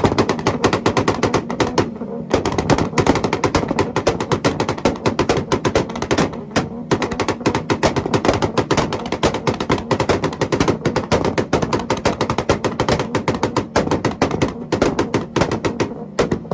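Honda car engine held on a two-step launch-control rev limiter: a rapid, continuous string of exhaust pops and bangs like machine-gun fire, with a couple of brief breaks, cutting off just before the end as the throttle is released.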